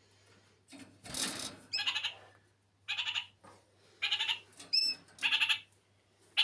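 Kakariki parakeet giving a run of short, nasal chattering calls, about one a second, with one brief higher chirp near the end. A short burst of noise comes about a second in.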